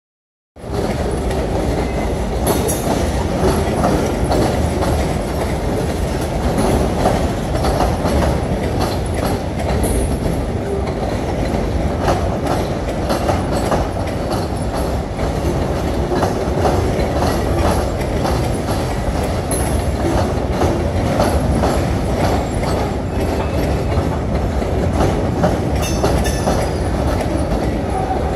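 Mixed freight train of tank cars, covered hoppers and boxcars rolling past, a steady wheel rumble full of clacks over the rail joints. Brief high wheel squeals come a few times.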